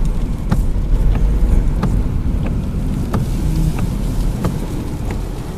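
Tropical-storm wind whipping: a loud, steady low rumble of gusts, with scattered sharp ticks through it.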